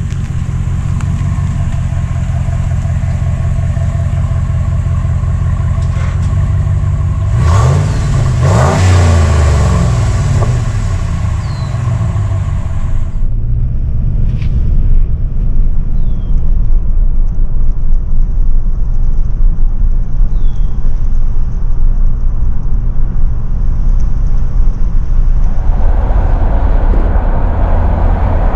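Ram 1500's 5.7 L HEMI V8 pulling the truck along on the road, with steady engine and road noise. About eight seconds in the engine note rises and falls again as it speeds up, and the road noise grows louder near the end.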